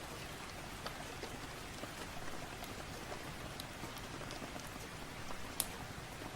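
Steady rain falling, mixed with a crackling fireplace giving scattered sharp pops, the loudest about five and a half seconds in.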